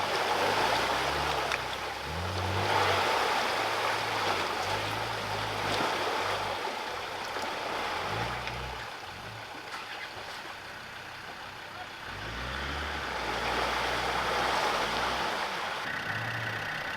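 Land Rover Discovery 2 engine working in low gear to drive out of a mud hole, its revs rising and falling several times, with steady sloshing of mud and water around the truck.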